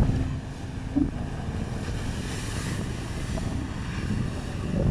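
Jet ski engine running steadily as a low drone, with wind buffeting the microphone.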